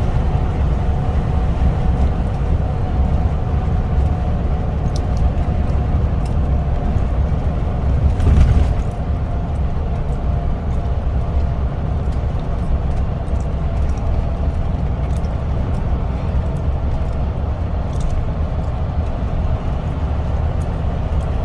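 A road vehicle running with a steady low rumble and a faint steady whine, with a brief louder swell about eight seconds in.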